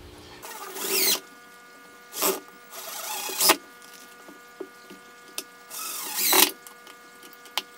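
Power drill driving screws into the corners of a wooden hive box, run in four short bursts with the motor whine rising as each starts, and a few light clicks between bursts.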